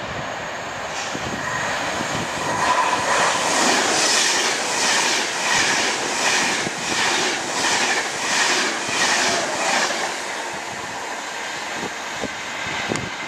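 Virgin Pendolino Class 390 electric tilting train passing close at speed. Its rushing noise builds, then fades after about ten seconds, with the wheels clacking about twice a second as the carriages go by.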